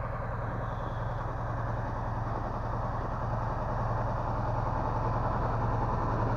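Engine of a log-loader (timber crane) machine idling steadily, a constant low hum with an even pulse.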